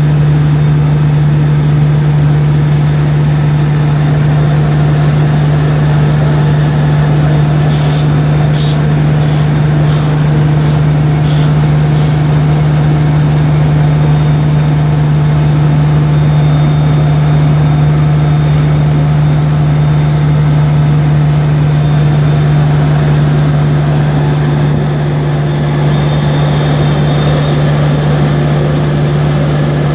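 A car driving along, with a steady, loud engine and road drone carrying a strong low hum. A few brief ticks come about eight to eleven seconds in.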